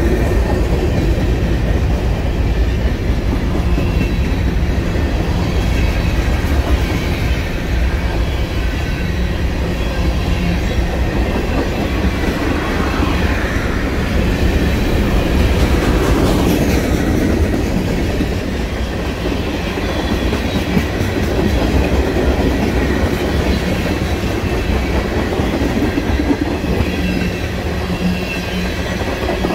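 Freight train of covered hoppers and tank cars rolling past at close range: a steady rumble of steel wheels on the rails.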